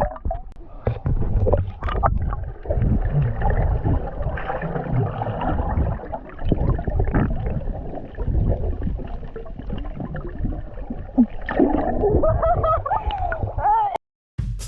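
Water sloshing and gurgling around an action camera held at or under the surface by a swimmer, with dense low rumbling splashes. Near the end comes a muffled wavering cry.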